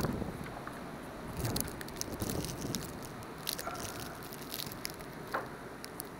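A door is pushed open into deep, fresh snow with a loud scrape at the start, followed by scattered crunching and crackling of the disturbed snow.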